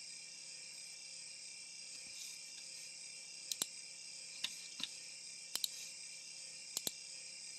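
Four pairs of short sharp clicks, double-clicks of a computer mouse button, starting about three and a half seconds in, over a steady high-pitched hiss.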